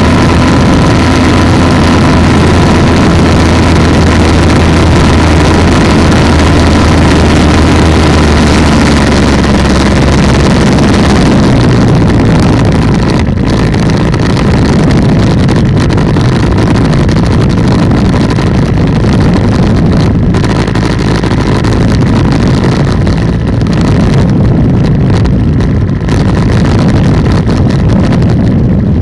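Polini 190 single-cylinder two-stroke engine of an ultralight trike running steadily and loudly. About ten seconds in, its even note gives way to a rougher, noisier sound.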